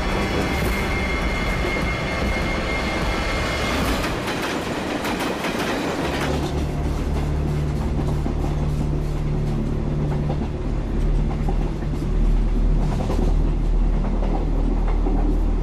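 Passenger train running, heard from inside the coach: a steady rumble with the clickety-clack of wheels on rail joints. A low steady hum sets in about six seconds in.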